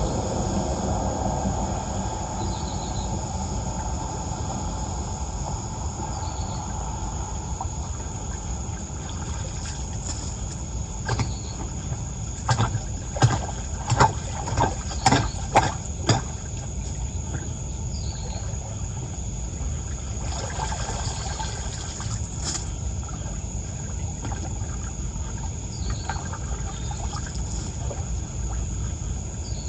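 Steady rush of floodwater draining into a street storm drain, with insects chirping high and steady over it. A quick run of sharp knocks comes about halfway through.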